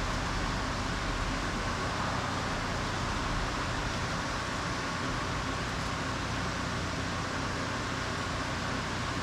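Steady mechanical hum and hiss, unchanging throughout, with a faint low drone underneath.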